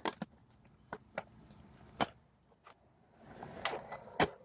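Hard plastic seat trim being handled and fitted back onto a truck seat: a series of separate sharp clicks and knocks, about half a dozen, with a rustle of handling building up just before the loudest knock near the end.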